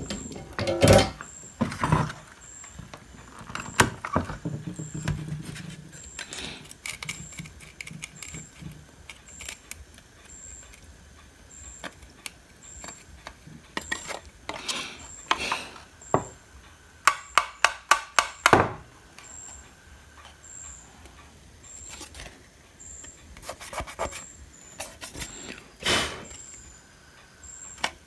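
Scattered clicks, taps and scraping of small hand tools working at rusted parts on a home theater power supply board, with a quick run of about eight clicks a little past the middle.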